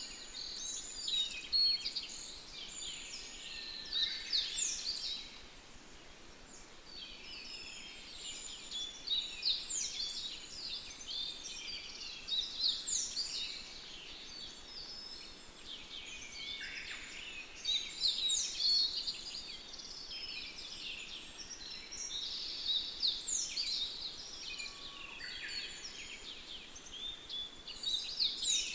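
Songbirds singing: a dense chorus of quick chirps and trills that comes in bursts every few seconds, with a quieter stretch early on, over a faint steady hiss.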